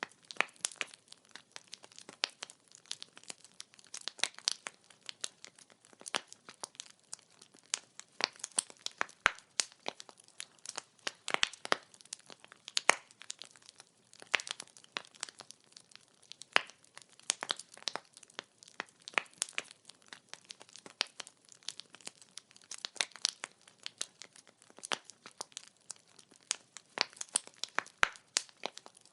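Burning firewood crackling and popping: a steady stream of irregular sharp snaps, some louder than others, over a faint hiss.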